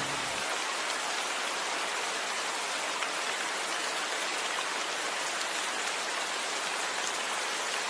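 Steady rain, an even hiss of falling rain with no pauses. The last low notes of music stop within the first half second.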